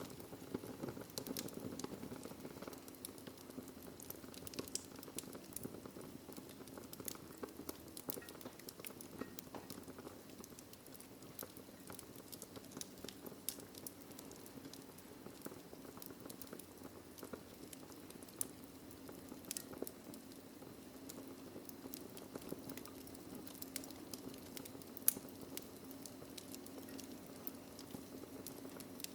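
Wood fire burning in a fireplace: a faint, steady low rumble of flames with frequent small crackles and pops, and one louder pop about 25 seconds in.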